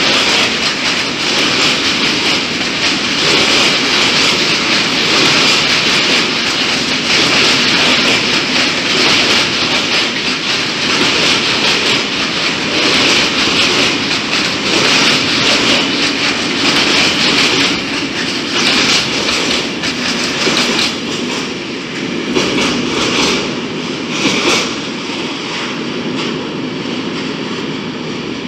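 Freight train of covered grain hopper wagons rolling past, steel wheels clacking over the rail joints. The sound eases off over the last several seconds as the end of the train moves away.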